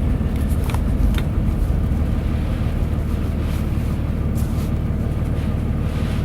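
Truck driving along, heard from inside the cab: a steady low engine and road drone, with a few brief clicks.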